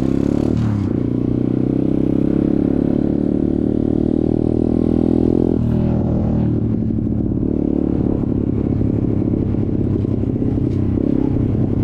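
Motorcycle engine pulling under way, its pitch climbing slowly for about five seconds, then dropping suddenly at a gear change and running on at a steadier speed.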